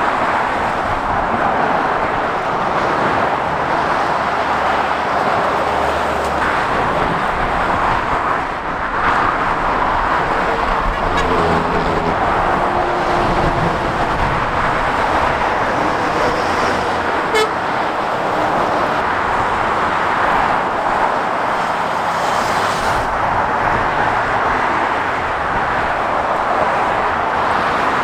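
Steady motorway traffic noise: tyres of passing lorries and cars on the road surface, with a few brief tones a third of the way in.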